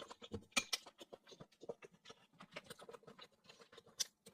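Close-miked mouth sounds of chewing sea hare: a dense run of small, irregular wet clicks and smacks. There are a couple of louder ones about half a second in and one sharp click near the end.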